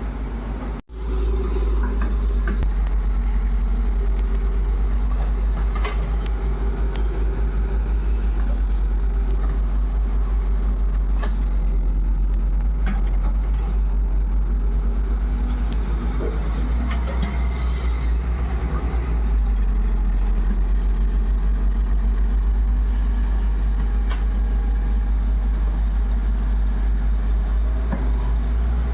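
Heavy diesel engine running steadily with a deep, pulsing rumble.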